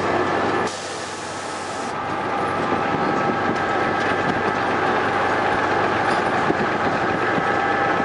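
Miniature train engine running steadily, with rail rumble and some clickety-clack from the wheels, heard from the driver's seat.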